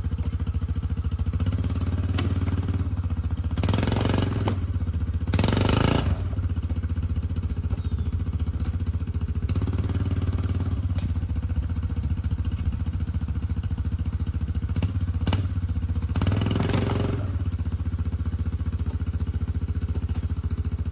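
A small engine running steadily at a low, even pitch, with short bursts of louder noise about four, six and sixteen seconds in.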